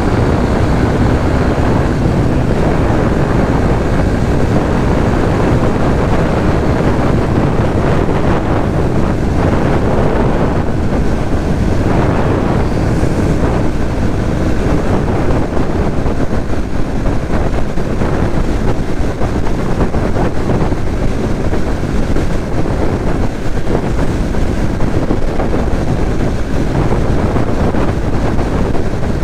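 Steady wind rush buffeting the microphone on a moving motorcycle, with the Suzuki GSX-S150's single-cylinder engine running underneath and traffic around it.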